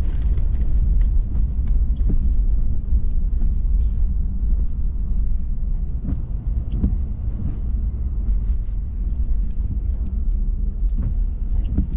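Steady low road-and-engine rumble heard from inside a moving vehicle's cab, with a few faint clicks and knocks.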